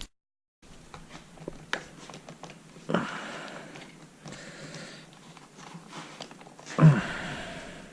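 Handling noise: scattered light clicks and knocks of hard parts being picked up and set down, with two brief rustling swells, after the sound cuts out for a moment at the start.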